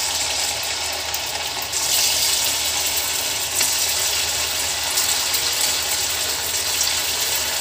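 Cornflour-coated chicken pieces deep-frying in hot oil in an iron kadhai: a steady sizzle and crackle that grows louder about two seconds in.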